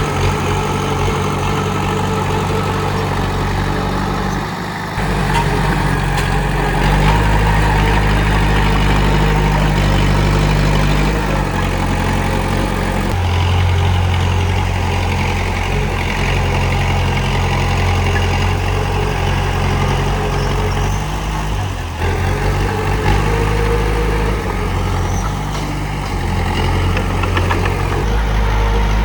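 Komatsu D31P crawler bulldozer's diesel engine running under varying load, its low note stepping up and down several times as the machine works.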